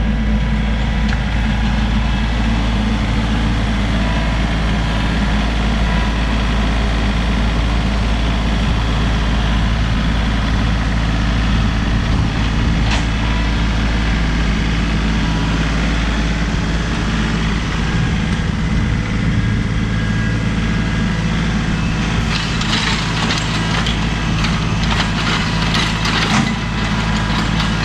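John Deere 3032E compact tractor's diesel engine running steadily while working. Rattling and crackling join it for a few seconds near the end.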